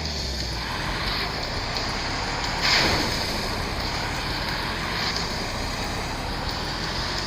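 Truck driving off-road: a steady noisy rumble, with a brief louder rush of noise about three seconds in.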